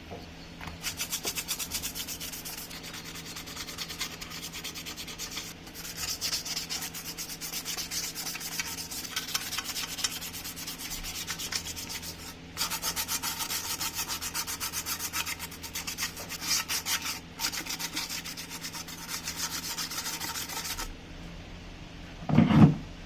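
Sanding: a steady, fast rasping rub that stops briefly twice and ends a couple of seconds before the close. It is followed by a single loud, low knock near the end.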